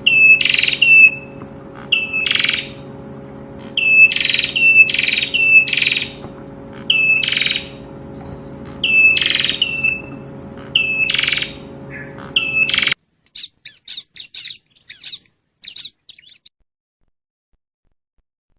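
Prinia (prenjak) calling: sharp notes that sweep down and end in a short flat tone, given in groups about once or twice a second over a steady low hum. About two-thirds of the way in, the hum stops and a quicker run of short high chirps follows for a few seconds before the sound cuts out.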